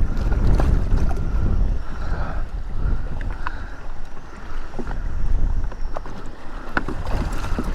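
Strong wind buffeting the microphone in gusts over water sloshing around a jet ski on rough water, with scattered small clicks and knocks.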